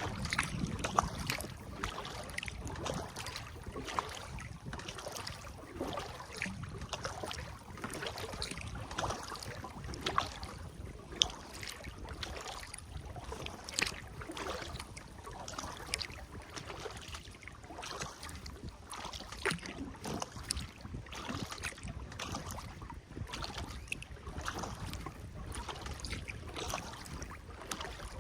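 Small splashes and drips of river water around a kayak and its paddle, irregular and continual, over a low rumble of wind on the microphone.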